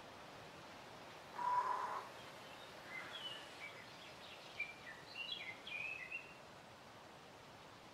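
Birds calling over a steady background hiss: one short, harsher call about a second and a half in, then a run of short, high chirping notes.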